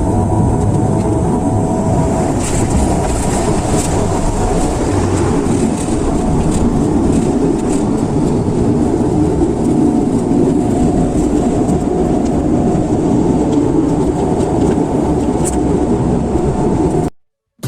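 Loud, steady rumble of an airliner heard from inside the cabin during landing, with a few knocks. It cuts off suddenly near the end.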